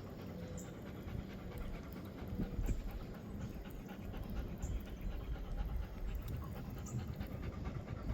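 A dog panting continuously, the uneasy panting of a dog nervous in a boat.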